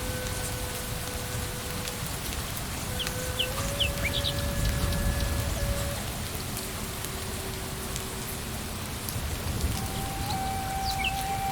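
Steady rain falling on leaves and ground, with a low rumble swelling about four to six seconds in. A bird gives a few short chirps around three to four seconds in and again near the end.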